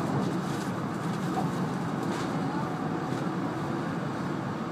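Steady running noise of an E2 series Shinkansen train heard inside the passenger car, with faint ticks about two and three seconds in.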